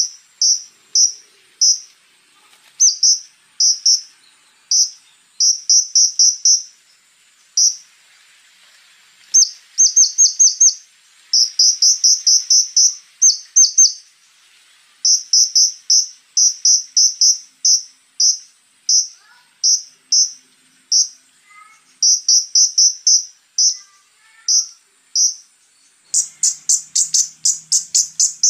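Konin (sunbird) singing: short, sharp high notes delivered in quick runs of several notes separated by brief pauses, with a faster run near the end. A faint steady high tone runs underneath.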